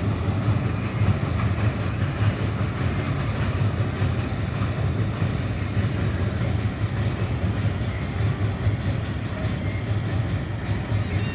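Long freight train rolling across a steel truss railway bridge: a steady low rumble of wagons and wheels on the steel span.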